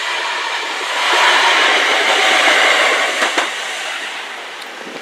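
London Midland multiple-unit passenger train passing close by at a level crossing: a steady rush of wheels on rail that swells about a second in, with two sharp clacks a little after three seconds, then fades as the train draws away.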